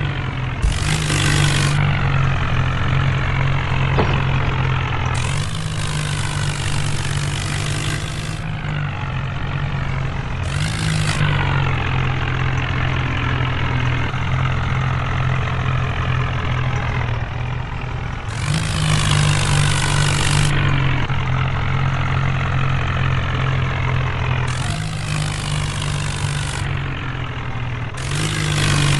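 HMT tractor's diesel engine running steadily, its pitch drifting up and down. A hissing noise comes and goes over it in spells of one to three seconds.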